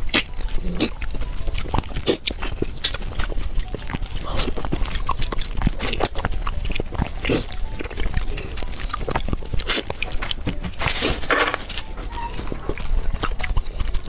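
Close-miked eating of spicy Chinese food: wet chewing, lip smacking and slurping as a string of irregular clicks and smacks, with a longer noisy stretch about eleven seconds in.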